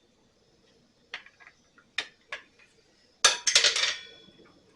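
Metal hand tools clinking: a few light knocks, then a louder clatter of metal on metal about three seconds in that rings briefly.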